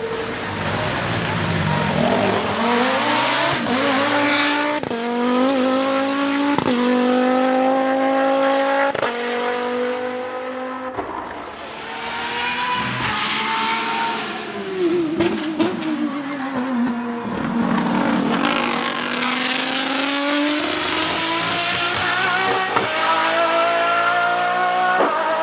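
Nissan 370Z's 3.7-litre V6 accelerating hard through several quick upshifts, its pitch climbing and dropping at each shift. Partway through it slows with the engine note falling, then pulls again with the pitch rising steadily.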